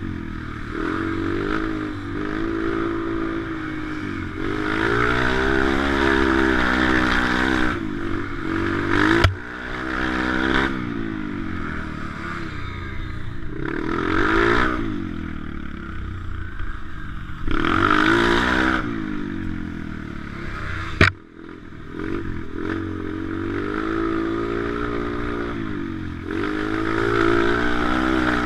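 Pit bike engine heard from a camera mounted on the bike, revving up and easing off again and again as it is ridden. A couple of sharp knocks cut in, about a third of the way through and again about two-thirds through.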